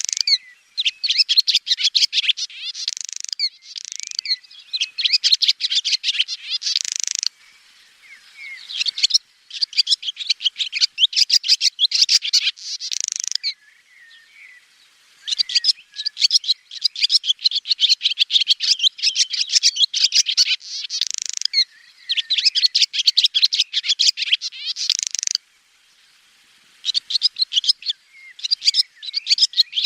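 Swallow twittering: rapid runs of high chirps and trills in dense bouts of a few seconds, with short pauses between them.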